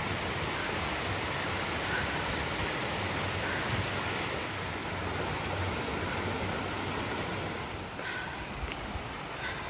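Steady rushing of flowing creek water, easing a little near the end.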